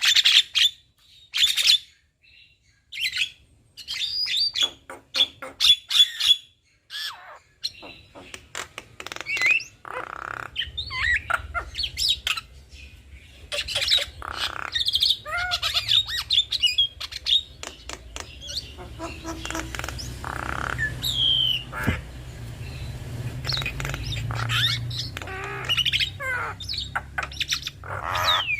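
A pair of Javan mynas calling back and forth: a fast jumble of harsh squawks, chirps and whistled notes, with short pauses early on. A low steady rumble sits underneath from about a third of the way in.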